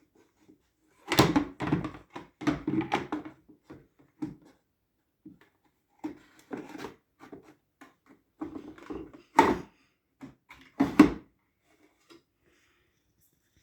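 Plastic parts of a washing machine clattering and clacking as a cleaned removable part is fitted back into place, in several bursts of knocks, the two loudest about nine and eleven seconds in.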